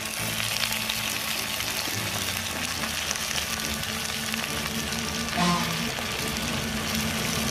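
Freshly washed, still-wet thuthuvalai (climbing brinjal) leaves sizzling and frying in hot oil in a clay pot as handfuls are dropped in. A brief pitched sound comes about five and a half seconds in.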